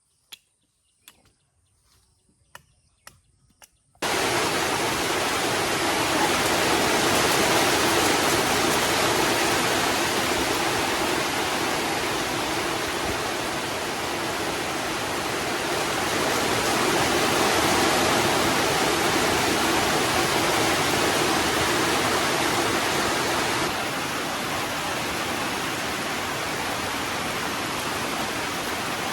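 Heavy rain falling: a loud, steady hiss that starts abruptly about four seconds in, after a few faint ticks, and steps slightly quieter near the end.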